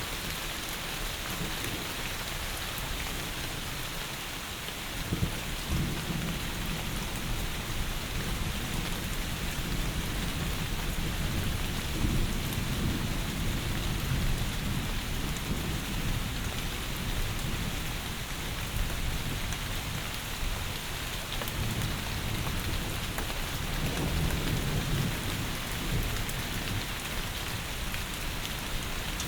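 Heavy rain falling steadily, with low rolls of thunder rumbling in and out from about five seconds in.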